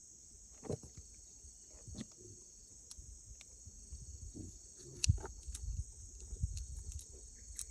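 Insects chirring in a steady, high, faint drone, with scattered light knocks and a low rumble about five seconds in.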